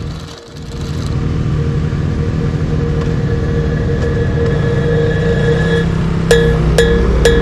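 Motorcycle engine idling with a steady low hum, dipping briefly about half a second in. Near the end, background music with wood-block-like percussion strikes about twice a second comes in.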